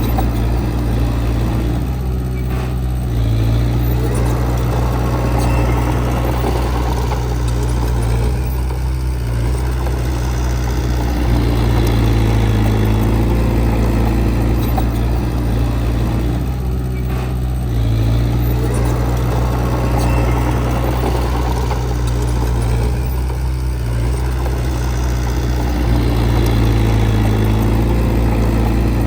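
Heavy earthmoving machine's diesel engine running continuously under work. Its sound eases off briefly several times.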